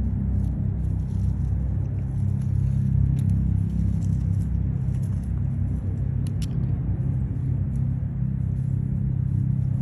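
Steady low rumble of a running engine. A few faint, short high chirps or clicks come about six seconds in.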